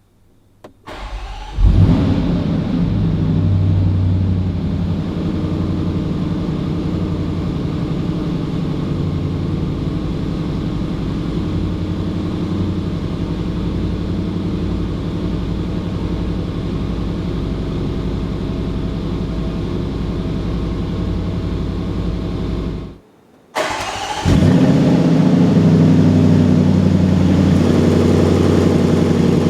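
Cold start of a 2025 Land Rover Defender 110's 5.0-litre supercharged V8, its valved exhaust open in dynamic mode. The starter cranks briefly, the engine catches with a loud rev flare and then settles into a steady idle. After a short break about 23 seconds in, the idling engine is heard again, louder.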